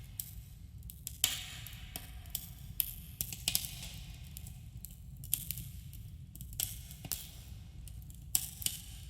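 Wood campfire crackling, with irregular sharp snaps and pops and brief hissing flares over a steady low rumble, with a slight echo.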